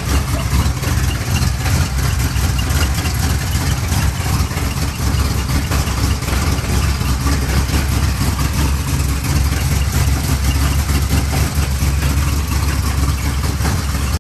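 Cadillac 500 cubic-inch V8 engine running at a steady idle, with rapid even pulses throughout; it stops abruptly at the end.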